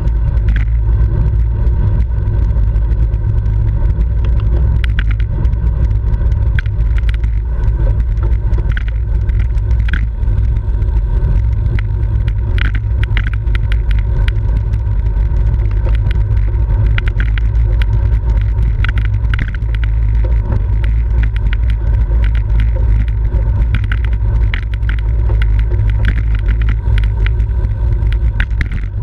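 Steady wind rumble on a camera microphone riding along in a bicycle race, with road and tyre noise and scattered short clicks.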